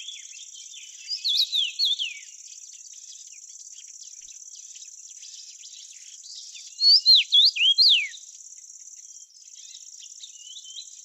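A steady, high-pitched insect chorus, like crickets trilling, with a songbird singing two short phrases of quick, falling whistled notes, one about a second in and one about seven seconds in. The bird phrases are the loudest sounds.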